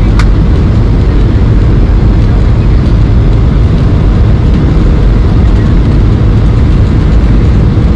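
Steady, loud cabin noise of a Boeing 737-800 airliner: a deep, even rumble of engines and airflow, with one short click just after the start.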